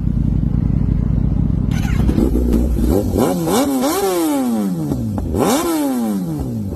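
Kawasaki ZX-10R inline-four sport bike with a full aftermarket exhaust system, idling in neutral and then revved: from about two seconds in, a run of quick throttle blips, each rising sharply and falling back slowly, with a bigger rev near the end.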